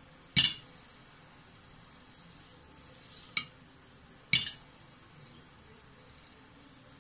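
Popcorn kernels popping one at a time in a covered wok: three sharp pops, the first about half a second in and two more a second apart, over a faint hiss. The popping is sparse, as it gets when the flame is turned low.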